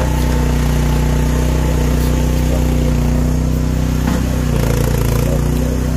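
Carbureted engine of a small Chinese-built mini excavator running steadily, its note dipping briefly about four and a half seconds in.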